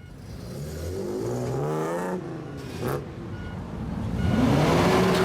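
A car engine revved through a loud exhaust. The pitch climbs for about two seconds and drops away, then climbs again near the end.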